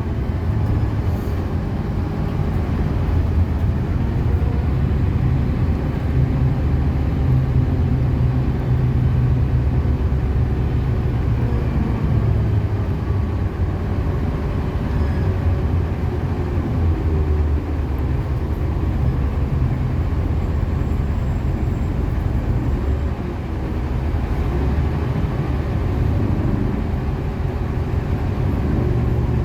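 City bus driving, its engine running as a steady low drone with road noise, the engine note shifting a few times as it speeds up and slows.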